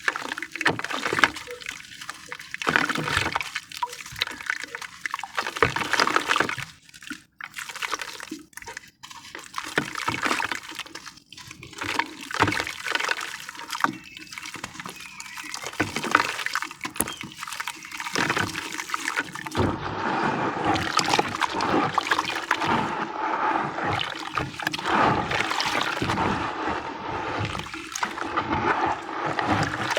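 Sand-and-cement pieces crumbling in water, with many short wet, gritty splashes and trickles. From about two-thirds of the way in it becomes a denser, steadier wet sloshing as the mix is worked into a paste.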